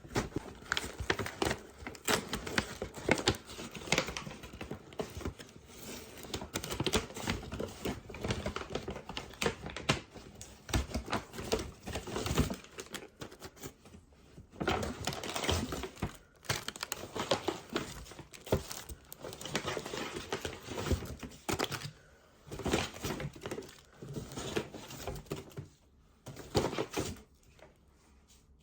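Plastic packaging crinkling and rustling, mixed with rapid, irregular light clicks and taps of things being handled, with a few short pauses.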